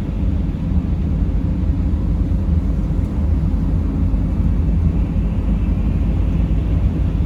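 Mercedes Sprinter van driving at a steady pace: a continuous low rumble of engine and road noise.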